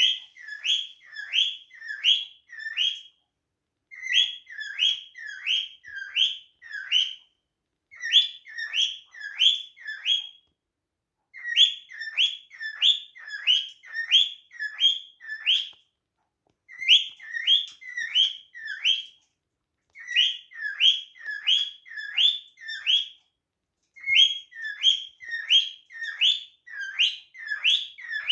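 Cockatiel whistling a short phrase of four to six quick rising notes, repeated about seven times with pauses of about a second between phrases.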